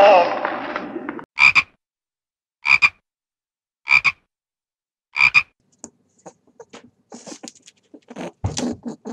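An animal's calls: a longer call ends about a second in, then four short croaking calls follow about a second and a quarter apart, and faint scattered clicks run near the end.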